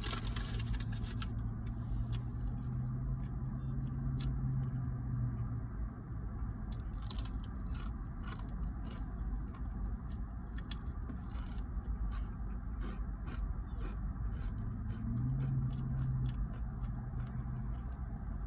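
A person eating close to the microphone: chewing, with many short, sharp crunches scattered throughout, as of Doritos tortilla chips. A low rumble runs underneath, and a low hum comes and goes.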